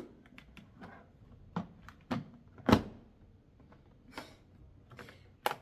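Plastic vacuum cleaner parts being handled and fitted together, the lid going onto the canister: a string of light clicks and knocks, with one louder knock about halfway through and another near the end.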